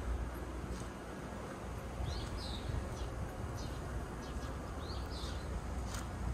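A songbird calling: a short, high, two-note call, each note arching up and down, heard twice about two and a half seconds apart over a low outdoor rumble.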